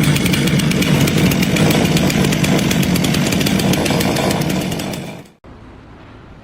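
A loud small engine or power tool, of the chainsaw kind, running steadily, then cut off abruptly about five seconds in, leaving only quieter background noise.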